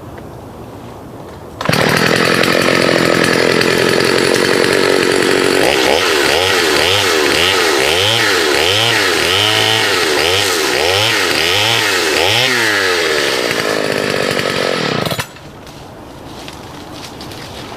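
Partner S55 two-stroke chainsaw cutting wood. About two seconds in it jumps to full throttle. From about six seconds its engine pitch rises and falls in waves roughly once a second as it works through the cut. Near the end it drops suddenly back to idle.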